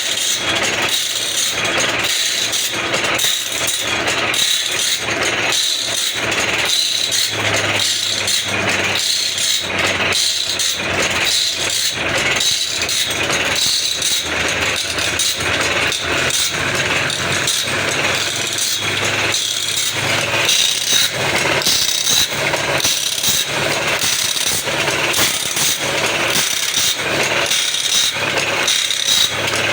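Automatic band saw blade sharpening machine running, its grinding wheel hissing steadily over a regular rhythmic clatter as the feed mechanism steps the blade on tooth by tooth.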